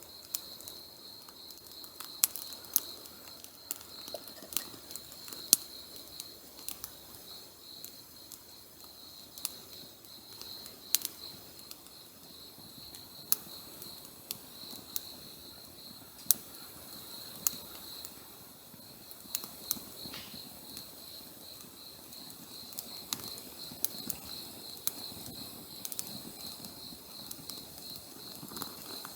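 Wood campfire crackling, with irregular sharp pops over a soft hiss. A steady high trill runs underneath.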